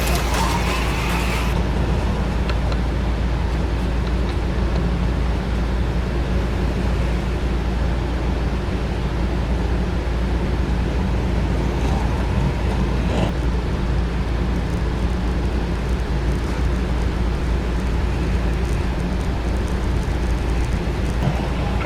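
Small electric motors of HO-scale AFX slot cars running around the track, a steady whir over a low hum. A louder, higher whine cuts off about a second and a half in.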